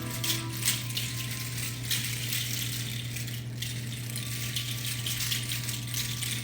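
A hand rattle shaken in quick, irregular strokes over a steady low drone.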